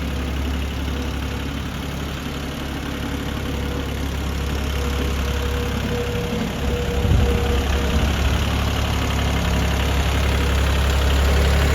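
Yanmar 26 hp diesel compact tractor engine running steadily near idle, with a brief rise in engine speed about seven seconds in, after which it runs a little louder.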